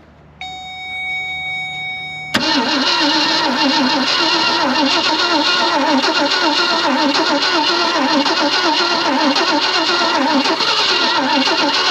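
1965 Ford Thunderbird's 390 V8 cranking over on the starter with a rhythmic, uneven chug for about nine seconds after a shot of starting fluid, trying to fire but not catching. A steady high whine comes first for about two seconds.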